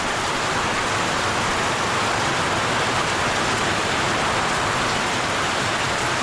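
Heavy tropical downpour: a steady, even hiss of rain falling.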